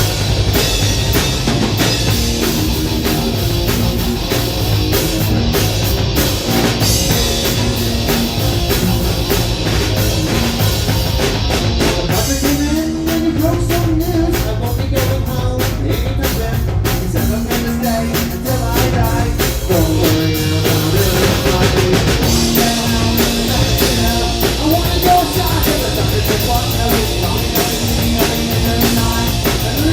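A rock band playing live, with a drum kit, guitar and singing. Partway through, the drums and low end thin out briefly while a single melodic line carries on, before the full band comes back in.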